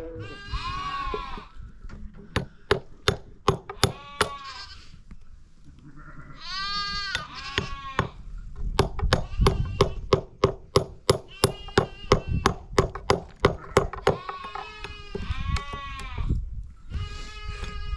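Sheep and goats bleating, several separate calls. Between the calls come two runs of sharp knocks, about three a second, which are the loudest sounds.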